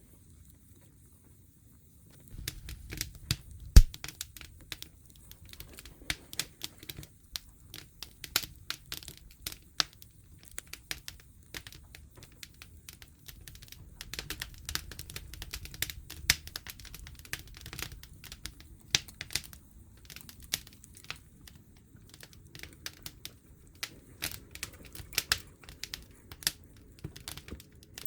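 Wood campfire crackling and popping, with dense irregular snaps starting about two seconds in and one sharp loud pop shortly after.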